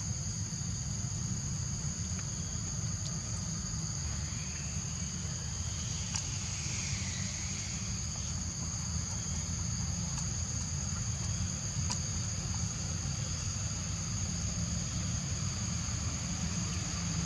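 Steady, high-pitched insect chorus of crickets holding two even tones, over a low steady rumble. A faint call rises and falls about five to eight seconds in.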